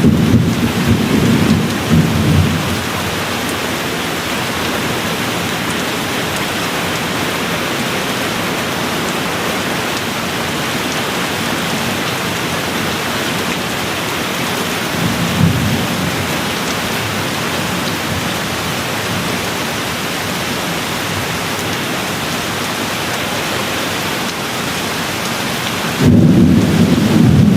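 Steady rain with rolling thunder. A rumble fades out over the first couple of seconds, a short one comes about halfway through, and a louder rumble starts near the end.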